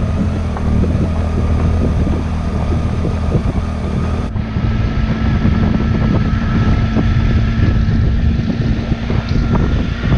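Triumph Tiger motorcycle engine running at a steady speed, with wind noise on the microphone. The high hiss drops out abruptly about four seconds in.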